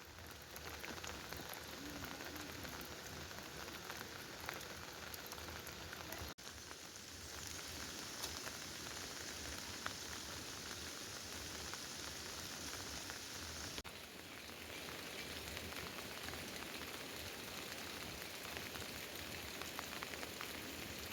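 Steady patter and hiss like rain falling on a surface. It changes abruptly about 6 and 14 seconds in, like cuts between takes.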